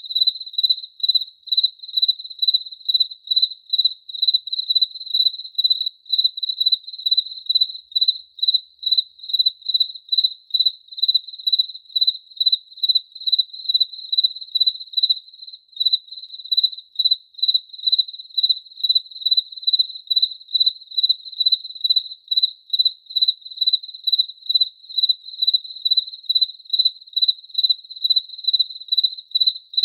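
A cricket chirping in a steady, even rhythm of about two to three chirps a second, each chirp a single clear high note.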